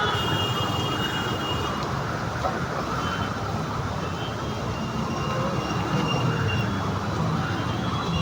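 Heavy rain and strong wind making a steady, dense noise, with faint high-pitched tones coming and going.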